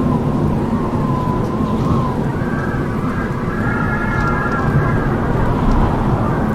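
Strong wind howling: a steady low rush with wavering whistling tones that move higher a couple of seconds in.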